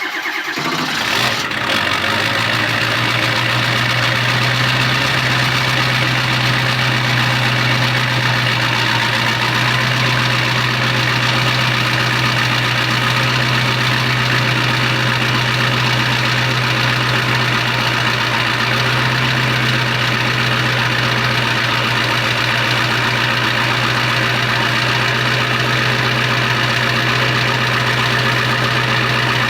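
Ford 7.3 Power Stroke V8 turbodiesel idling steadily just after a cold start. It settles into the idle within the first couple of seconds.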